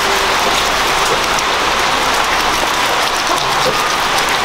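Pork leg deep-frying in hot oil: a steady sizzle with dense fine crackling.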